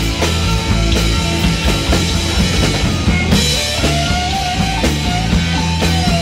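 Live rock band playing, with a full drum kit and bass under a lead line that bends and wavers in pitch from about the middle on.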